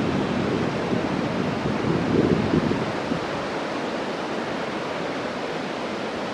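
Wind buffeting the microphone: a steady rushing noise with low gusts swelling and fading, strongest about two seconds in.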